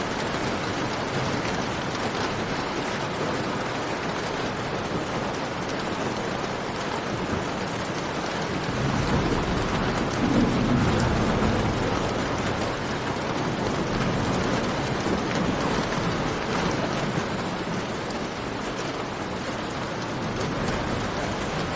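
Steady rain falling, a dense even hiss, with a low rumble that swells about nine seconds in and fades over the next few seconds.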